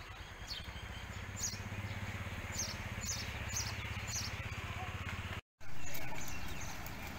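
A bird giving repeated short, falling chirps over a steady low rumble.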